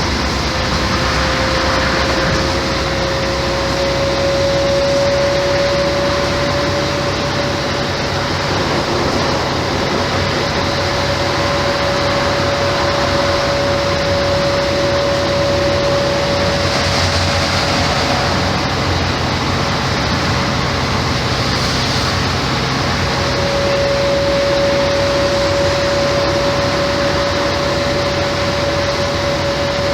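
Mercedes-Benz O-500MA Bluetec 5 bus running, a steady engine drone with a single high whine that rises a little in the first few seconds and then holds at one pitch.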